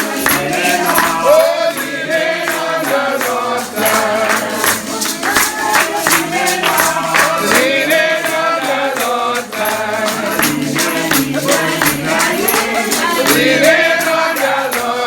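Congregation singing a gospel hymn together, with a tambourine keeping a steady beat.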